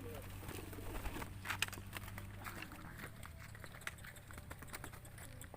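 Domestic pigeons cooing faintly, with many light clicks and taps scattered throughout and a steady low hum underneath.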